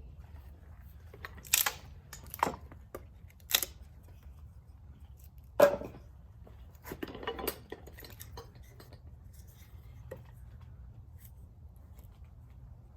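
Carpentry work: a few sharp knocks and clatters of tools and lumber being handled, four separate hits in the first six seconds, the last the loudest, then a short cluster of smaller clatters and a few faint clicks.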